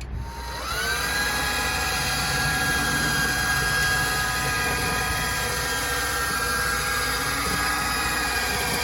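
Electric hoist motor spinning up about half a second in, then running at a steady, high whine.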